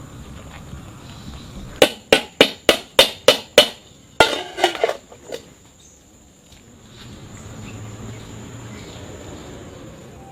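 A run of seven sharp, evenly spaced knocks, about three a second, then a quicker, rougher cluster of knocks a little later.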